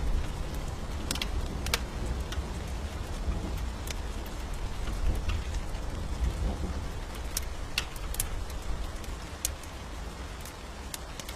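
Steady rain with a deep rumble of thunder that fades away near the end, and sharp crackles from a wood fire scattered throughout.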